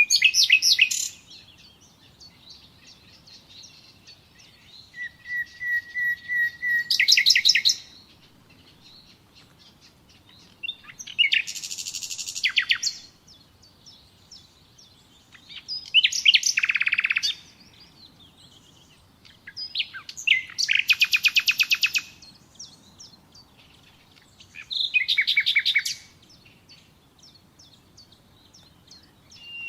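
Nightingale singing: about six separate song phrases a few seconds apart, each a fast run of rapidly repeated notes. One phrase opens with a short row of steady whistled notes before a fast trill.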